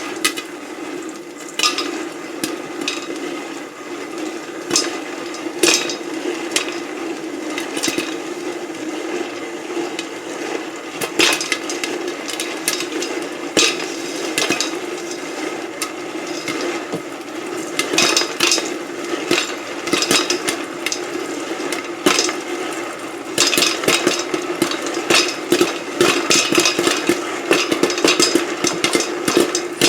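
Popcorn kernels popping inside a hand-cranked Whirley Pop stovetop popper, at first a few scattered pops, then many quick pops in a row in the second half, over a steady low hum.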